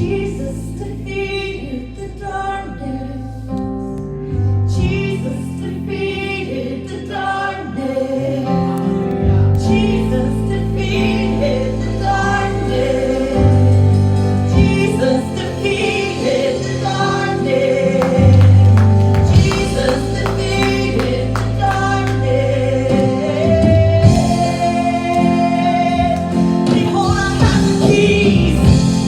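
Gospel worship music in church: a group of singers, women's voices among them, singing over a band with held bass notes.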